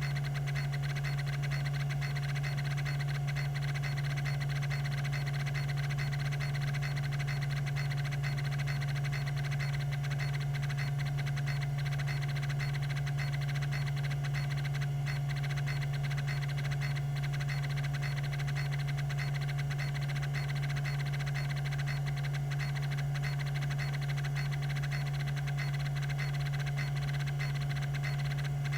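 Tandon TM362 20 MB MFM hard drive spinning at 3600 RPM, giving a steady low hum with a fainter, higher steady tone above it. There are no head-seek clicks.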